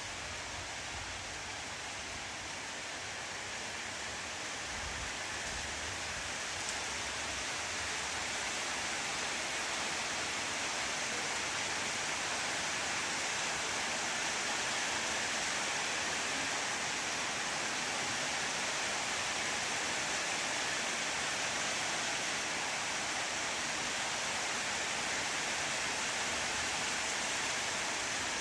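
Steady rain falling, an even hiss that grows a little louder over the first dozen seconds and then holds.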